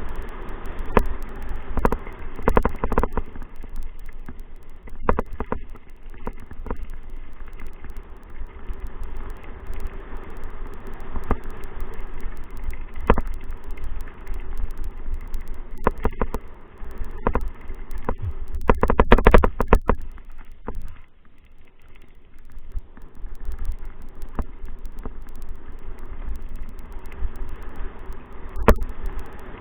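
Steady low rumble of wind buffeting the microphone, broken by frequent sharp knocks and rattles, with a dense cluster of them about two-thirds of the way through.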